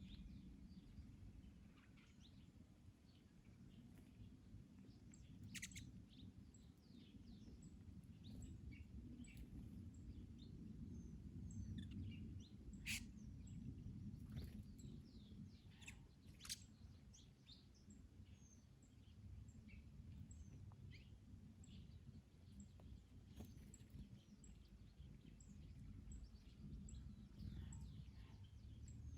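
Faint garden ambience: many small birds chirping and singing at once, over a steady low rumble of wind. A few sharp clicks stand out, the loudest about halfway through.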